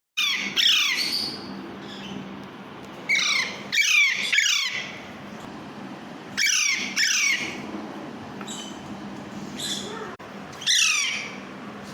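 Alexandrine (Pahari) parakeet chicks giving harsh, downward-sliding squawks in groups of two or three every few seconds, with a few fainter, higher calls between. A low steady hum runs underneath.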